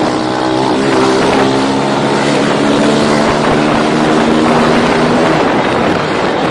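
Motorcycle engine running at steady revs, its pitch wavering about a second in, with wind noise on the microphone.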